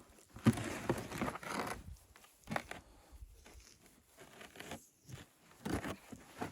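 Handling noise: one rough scraping or rustling stretch lasting about a second and a half, then a few short, soft knocks spaced out over the rest.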